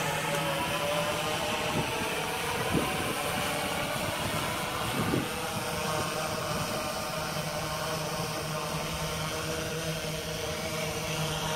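Multi-rotor drone's propellers buzzing in flight: a steady hum of several pitched tones over a rushing noise. It weakens for a few seconds and comes back stronger in the second half. There are a couple of soft thumps about 3 and 5 seconds in.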